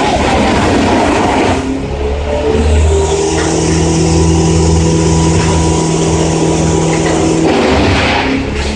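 A large engine runs steadily with a low, even hum. There are louder, rougher noisy stretches in the first second or so and again near the end.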